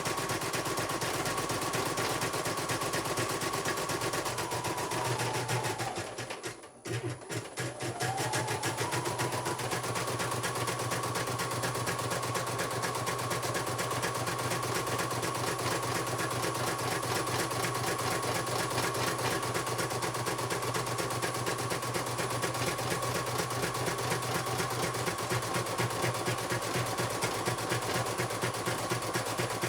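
Computerized embroidery machine stitching, a rapid run of needle strokes over a steady motor whine. About five seconds in the whine falls and the machine stops for a second or two, then it speeds back up and stitches on steadily.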